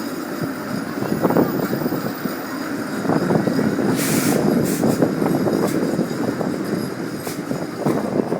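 Toronto streetcar running along its rails, a steady rumble full of small rattles and knocks. A short hiss comes about four seconds in.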